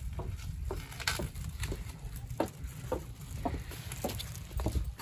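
Wood fire crackling in a firebox: irregular sharp pops and snaps, about two a second, over a low rumble.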